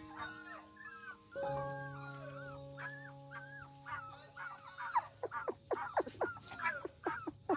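Young puppies whimpering and squeaking in short, repeated calls, which come faster and sharper in the second half. Soft background music with held notes plays underneath.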